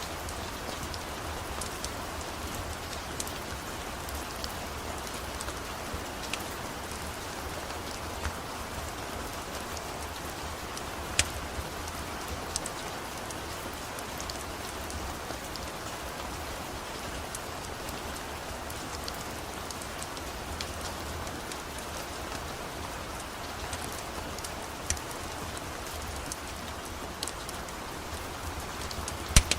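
Steady rain falling, with a few sharp clicks scattered through it, the loudest about eleven seconds in and another near the end.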